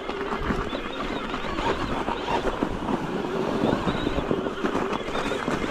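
Wind rushing over the microphone and trail noise from an electric mountain bike riding a snowy trail, with many small irregular knocks and rattles.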